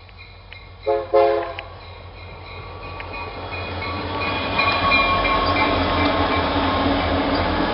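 Freight train horn sounding a short double blast about a second in, then the rumble of the approaching train building steadily louder, with level-crossing bells ringing.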